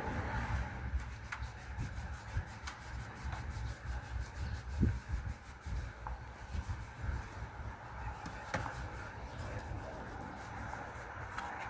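Hand work on a wooden bowl: wood being rubbed or sanded, with scattered light clicks and knocks over a low steady hum.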